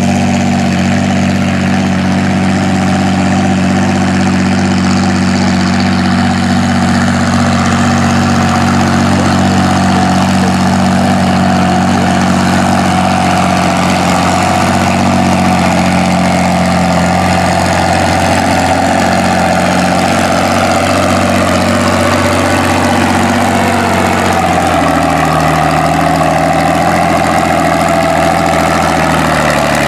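Antique farm tractor engine running loud and steady at high speed. Its pitch sags about two thirds of the way through and picks up again near the end.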